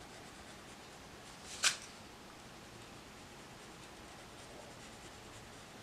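Colored pencil scratching softly on paper as the leaves are shaded, with one sharp click about one and a half seconds in.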